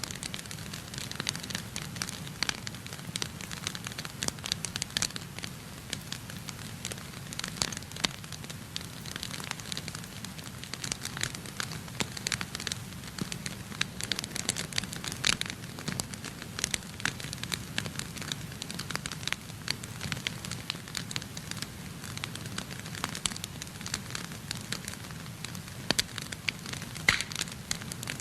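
Wood fire crackling in a fireplace: irregular sharp pops and snaps from the burning wood over a steady low rumble of the flames, with a few louder pops now and then.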